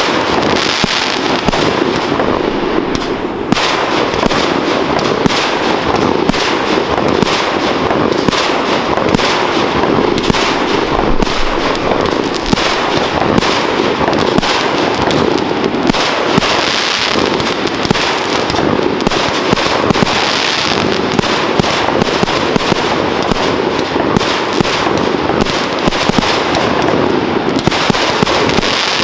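Fireworks display: aerial shells bursting in a dense, nearly continuous barrage of bangs and crackles, many reports a second at a steady level.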